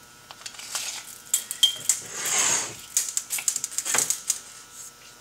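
Metal saw chain and bar being handled: a run of small metallic clicks and clinks, with a longer scrape about two seconds in.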